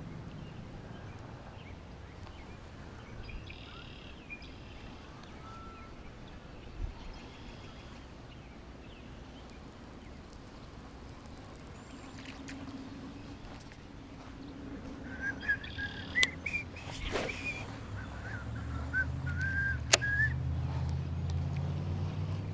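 Birds chirping and whistling over light wind noise, with a run of wavering whistled notes and a few sharp clicks about three quarters of the way through.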